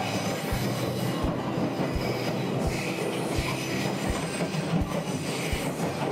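Train running along the track, heard on board: a steady rumble of wheels on rail, with a hissing wheel squeal coming and going twice, about three seconds in and again near the end.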